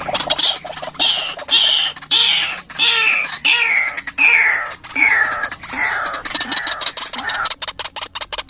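White-breasted waterhen calling: a long run of loud, harsh notes, about two a second, each sliding down in pitch. Near the end it gives way to rapid ticking.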